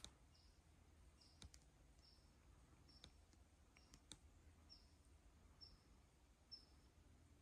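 Near silence with a faint, short, high chirp of a small bird repeating about once a second, and a few faint clicks.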